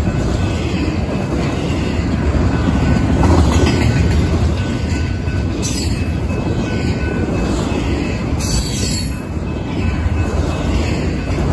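Double-stack intermodal well cars rolling past at speed: a steady rumble and clatter of steel wheels on rail, with brief high wheel squeals about six seconds and eight and a half seconds in.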